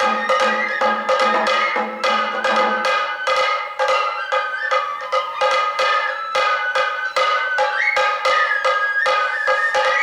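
Sato kagura festival music: a high bamboo flute melody, with small slides between notes, over quick, steady drum strokes. A lower sustained tone drops out about three seconds in.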